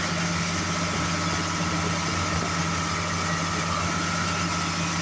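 Tractor engine running steadily at about 1850 rpm, driving a grain auger through the PTO, with a steady whine above the engine note.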